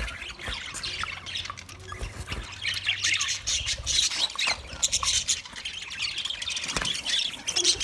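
Budgerigars chattering and squawking: a busy run of short, high chirps and squawks.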